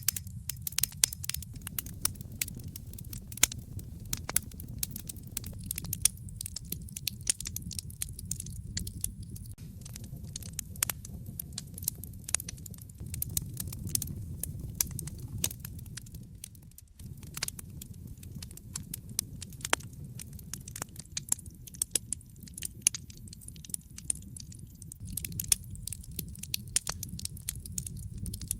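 Wood fire crackling in a fireplace: frequent sharp pops and snaps over a steady low rumble of the flames, the rumble dropping away briefly a little past halfway.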